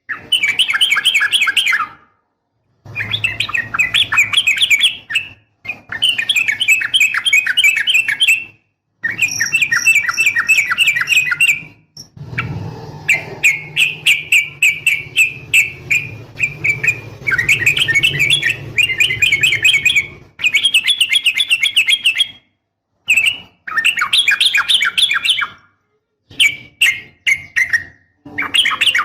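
Yellow-vented bulbul (trucukan) calling in quick chattering phrases of rapid repeated notes, each phrase a second or three long, stopping abruptly between phrases; offered as a female calling to a male.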